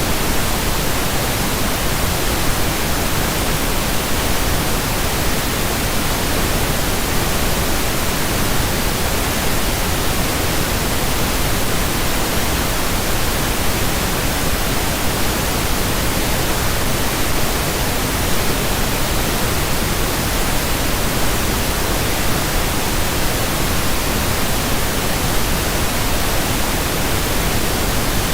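Pink noise: an even, steady hiss with no changes.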